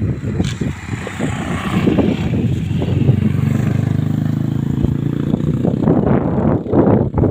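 130cc drag-bike engine being revved: it runs rough and uneven at first, is held at a steady higher speed for about three seconds from around two and a half seconds in, then drops back to rough, uneven running.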